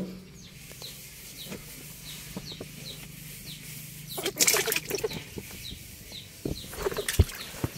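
A bird peeping over and over, about two short falling peeps a second, over a low steady hum that stops about five seconds in. A burst of noise comes about four seconds in, and a single sharp knock near the end.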